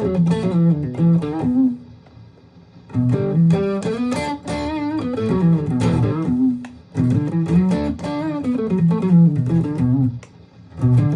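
Aria STG-series electric guitar being played: phrases of single-note runs climbing and falling, broken by short pauses about two seconds in and again near the end.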